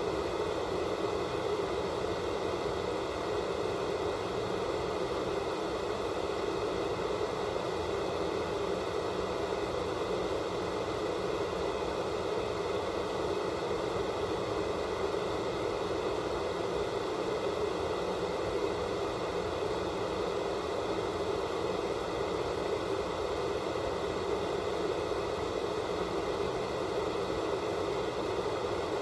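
Analog television static: the steady hiss of a set receiving no signal, with a few faint steady whistles above the hiss.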